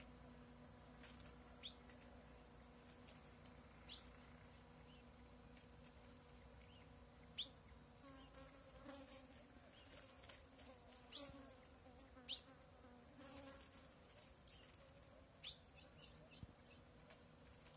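Ultramarine grosbeak (azulão) giving short, sharp chip calls, about seven scattered through, over a faint insect buzz and a low steady hum. A faint wavering lower sound comes in the middle.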